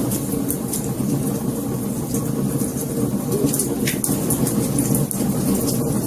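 Fire crackling: many small sharp snaps over a steady low rushing noise, with one slightly stronger snap about four seconds in.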